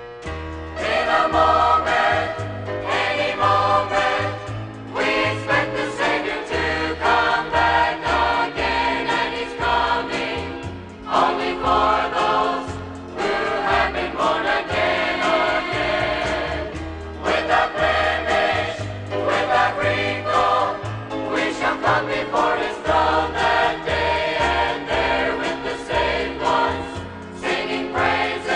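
Gospel choir singing with instrumental accompaniment and a moving bass line; the music starts at full level right at the beginning.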